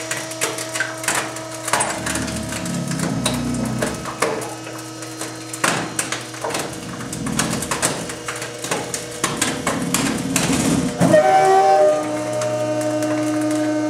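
A microwave being crushed by a trash compactor's ram: irregular cracking and crunching of breaking plastic, glass and sheet metal over the compactor's steady motor hum. Near the end the machine briefly strains louder before settling back to its hum.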